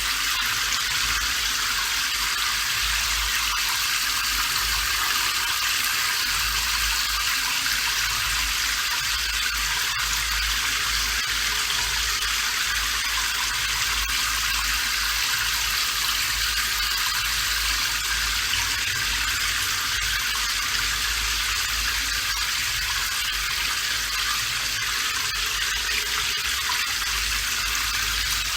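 Steady rain, an even hiss that does not change, with a faint low rumble underneath.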